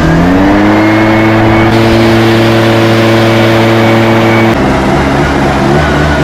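A small engine revs up and holds a steady high speed, then its pitch drops a little about four and a half seconds in.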